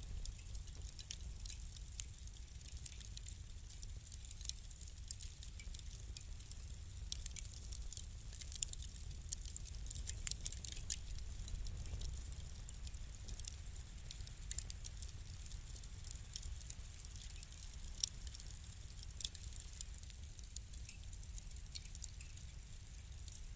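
Wood fire crackling in a fireplace: a steady low rumble of flames with irregular sharp pops and snaps, several of them louder around the middle and once near the end.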